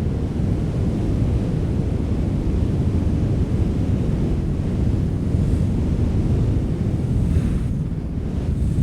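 Wind blowing steadily, a deep rushing sound heavy in the low end, buffeting the microphone, easing slightly near the end.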